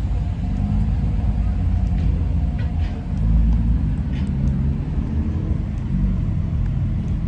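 Car engine running, most of the sound low and steady, swelling slightly about three seconds in.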